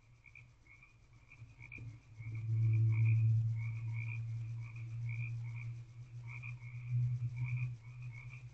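Frogs calling at night: a steady chorus of short repeated croaks, about two to three a second. From about two seconds in, a louder low rumble runs under them, strongest around three seconds and again near seven seconds.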